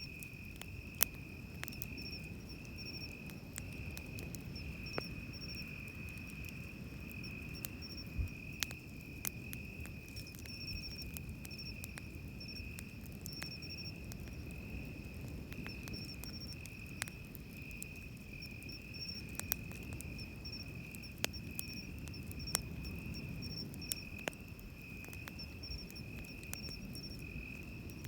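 Insects calling, one holding a steady high trill and another chirping in short repeated bursts, over a low wash of surf. Sharp, irregular crackles from a wood campfire pop through every second or two.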